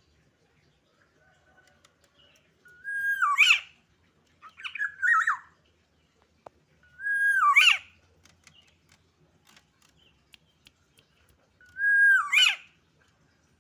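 A black-naped oriole (kepodang) calls four times, a few seconds apart. Each call is a short whistled note that breaks into a harsh, falling cry. The keeper calls the bird agitated and still learning its song.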